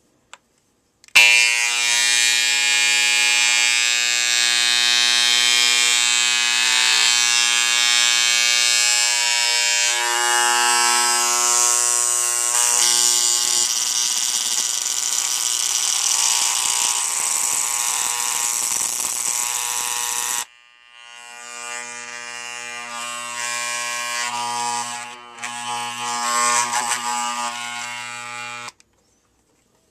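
Older Wahl CMCO electric hair clipper running with a loud, rattly buzz. It is switched off after about twenty seconds, then runs again more quietly and unevenly for several seconds. The loud buzz is a sign the clipper is out of adjustment, and the adjustment is being backed off to quiet it.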